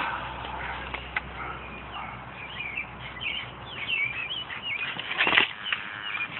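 Small birds chirping over a low outdoor hum, with a short louder rustling scrape about five seconds in.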